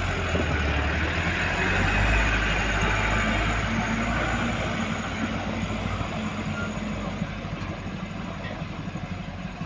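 Large diesel engine of heavy machinery running steadily with a low hum, slowly fading over the last few seconds.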